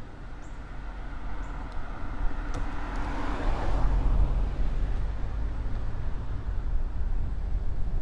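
A car passing: its tyre and engine noise swells about three seconds in, peaks and fades away, over a steady low rumble.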